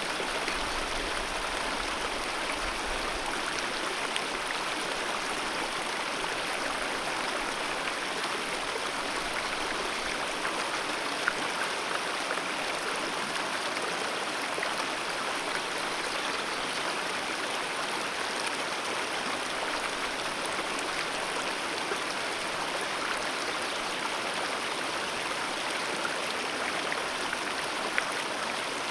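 Alpine mountain river rushing over rocks in a steady, unbroken flow, with a couple of brief louder splashes, about 11 seconds in and near the end.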